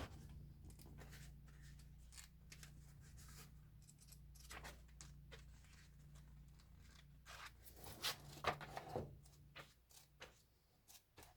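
Near silence: a steady low hum with scattered faint rustles and clicks, a little busier about two-thirds of the way through.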